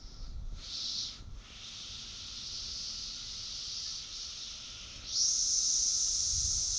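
A chorus of Brood XIII periodical cicadas buzzing steadily, high-pitched, with a brief swell about a second in. About five seconds in, a much louder cicada close by starts calling abruptly and keeps going.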